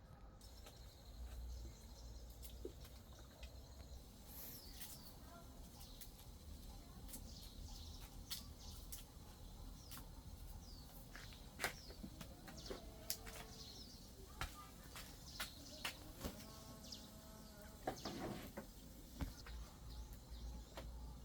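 Faint bird calls and chirps with many scattered sharp taps and clicks over a low rumble.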